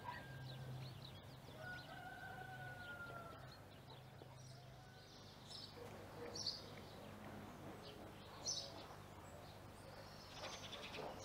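Faint outdoor ambience: a low steady hum with a few short, high bird chirps, the clearest about six and a half and eight and a half seconds in.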